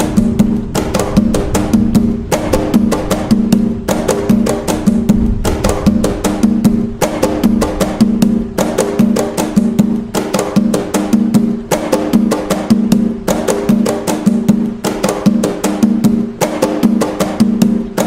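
Atabaque drums played by hand in the nagô toque of Umbanda: a fast, steady, repeating rhythm of ringing drum strokes.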